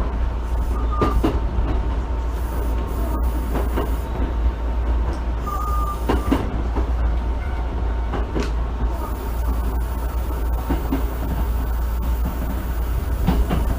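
Inside an unrenovated Osaka Municipal Subway 66 series car, the train runs with a steady rumble. Close pairs of clicks come every few seconds as the wheels cross rail joints.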